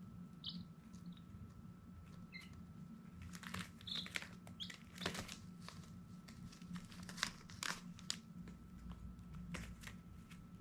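Baby chicks giving a few short, high peeps amid scratchy rustling and clicking, busiest through the middle, over a steady low hum.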